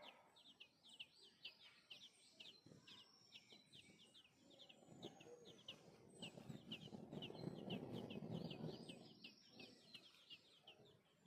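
Faint, rapid high peeping of baby birds: short downward chirps, several a second, without a break, like chicks calling to be fed. From about five seconds in, a louder low, rough noise runs for several seconds under the peeping.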